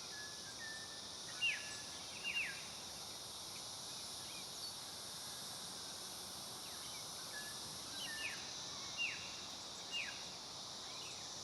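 Faint natural ambience: a steady high-pitched insect drone, with several short falling bird chirps over it, some in pairs.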